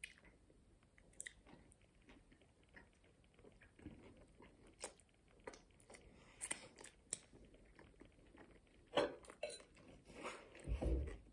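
Close-up chewing and biting of pulled pork burgers and chips, with small crunches and mouth clicks scattered throughout, louder about nine seconds in and near the end.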